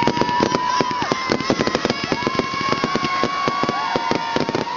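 Fireworks display: dense, rapid crackling with several whistling tones, each held for about a second.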